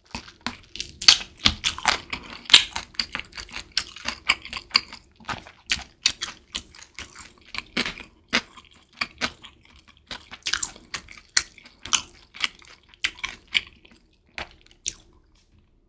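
Close-miked chewing of a bite of sauced chicken drumstick: a rapid series of sharp, wet mouth clicks and smacks that thins out in the last couple of seconds.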